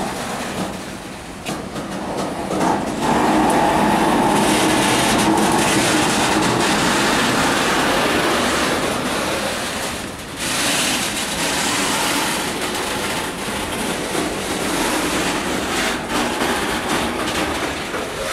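Container flat wagons of a freight train rolling past, a steady rumble of steel wheels on rails with scattered clicks; it grows louder about three seconds in, eases briefly around ten seconds, then carries on.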